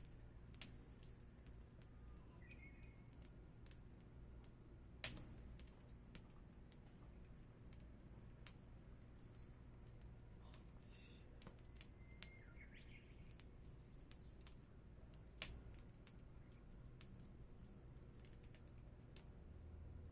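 Wood fire crackling quietly, with scattered sharp pops, the loudest about five seconds in and another near fifteen seconds. Faint bird chirps in the background.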